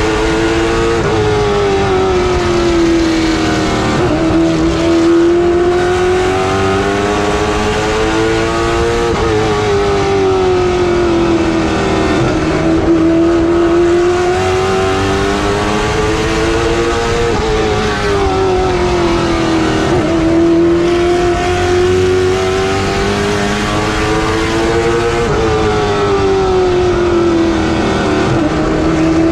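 Late model stock car's V8 engine at racing speed on a short oval. The revs rise and fall again and again every few seconds, climbing on the straights and dropping as the driver lifts for the corners.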